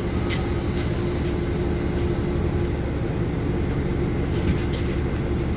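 Moving city bus heard from inside: a steady low engine and road rumble with a constant hum, broken by scattered short rattles and clicks.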